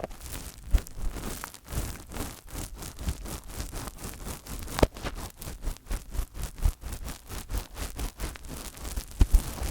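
Fingers touching a microphone up close: a quick run of scratchy rubbing and tapping strokes, several a second, with a few heavier thumps, one about five seconds in and a couple near the end.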